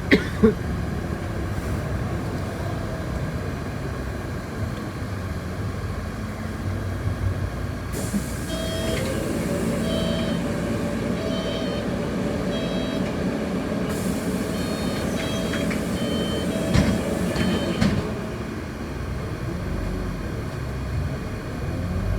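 City bus interior: steady engine and road rumble. About eight seconds in comes a hiss of air lasting several seconds, along with a run of short high electronic beeps, and a sharp knock near the end.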